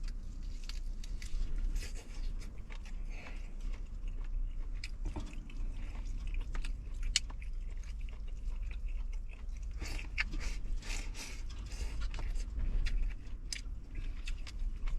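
A person chewing and biting into stewed chicken, with irregular small clicks and crunches of eating over a steady low rumble.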